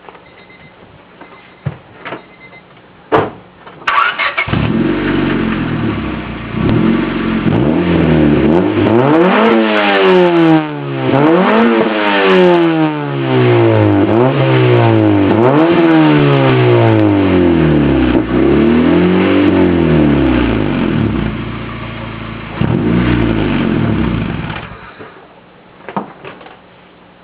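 1996 Honda hatchback engine heard through a Greddy aftermarket muffler on 2-1/4 inch cat-back tubing: it starts about four seconds in and idles. It is then blipped up and back down about five times, returns to idle, and is switched off near the end.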